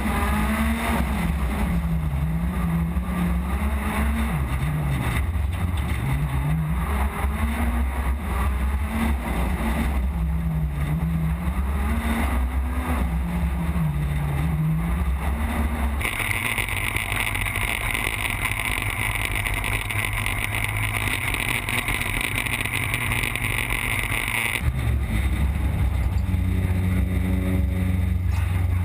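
A rally car's engine running loud, its pitch rising and falling repeatedly as it accelerates and backs off, in several clips joined with sudden cuts. Partway through, a steady high hiss joins for several seconds, then stops abruptly.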